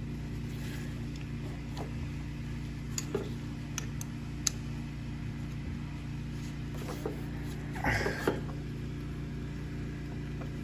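Hand wrench working a small bolt on a lawn mower carburetor: scattered light metallic clicks and taps, with a small cluster of knocks near the end, over a steady low hum.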